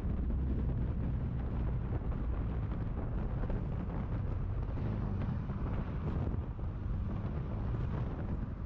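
Car driving: steady engine and road noise with wind buffeting the microphone.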